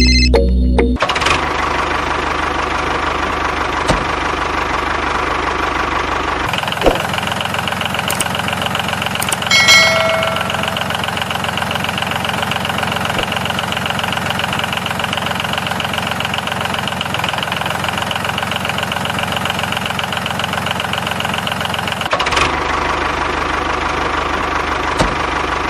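An engine running steadily with a rapid, even pulse. About six seconds in it shifts to a heavier, fuller note, then drops back near the end, and a short pitched tone sounds around ten seconds in.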